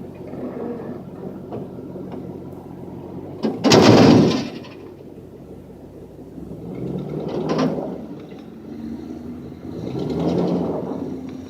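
Ford F-250 pickup's engine revving under load as it strains against tow chains to pull a stuck box truck, with a loud rushing burst about four seconds in and two shorter revs later on.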